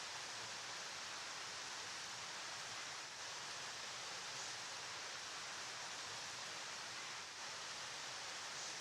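Steady rush of a flowing river, an even hiss that dips slightly twice.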